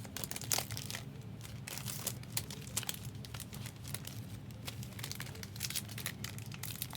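Trading card pack wrappers crinkling and tearing as packs are ripped open, in irregular short crackles.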